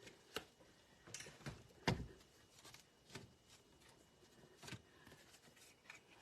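A few scattered light knocks and clatters of stamp sets and craft supplies being moved about on a tabletop, the loudest about two seconds in.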